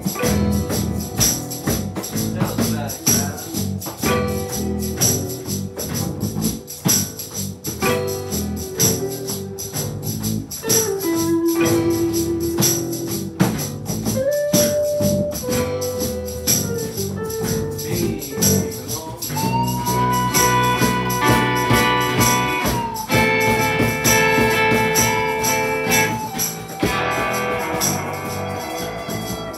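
Live band playing a song on a repeating four-chord progression, with a tambourine keeping a steady beat. Long held melody notes sound over the band in the second half.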